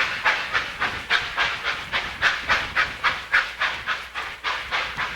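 Steam locomotive exhaust beating hard, about four sharp chuffs a second, as it works under heavy load pulling three cars up a steep grade.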